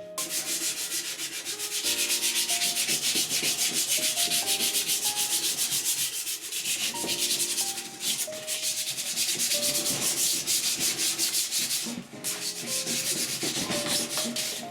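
Quick, even back-and-forth abrasive rubbing strokes, about four or five a second, with two short breaks, about six and twelve seconds in. Light background music plays underneath.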